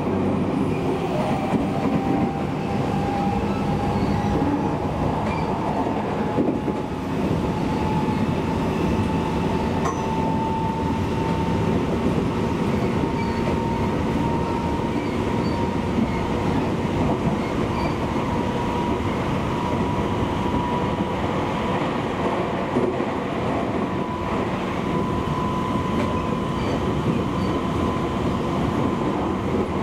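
Electric commuter train running along the line, heard from on board: a steady rumble of wheels on rail, with a thin high whine that rises slowly in pitch throughout.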